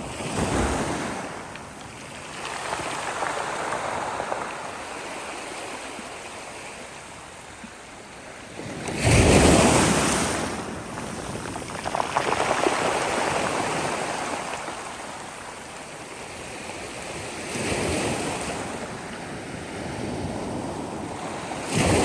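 Sea waves breaking and washing up the shore, the rush swelling and fading every few seconds, with the loudest surge about nine seconds in.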